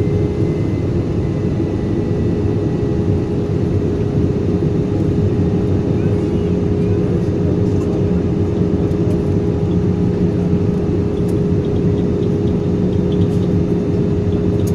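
Steady engine and airflow drone of an Airbus A320-200 in flight: a deep rumble with a steady hum held at one pitch.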